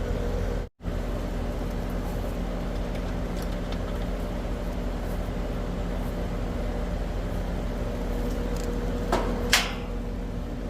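Steady hum of an outdoor central air conditioner condenser unit running, with a sharp metallic clack about nine seconds in.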